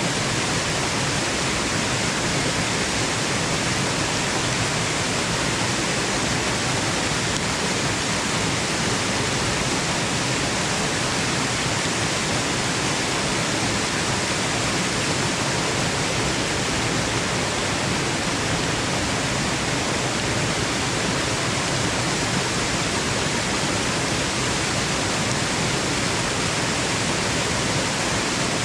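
Waterfall rushing: a steady, even hiss of falling water that never changes.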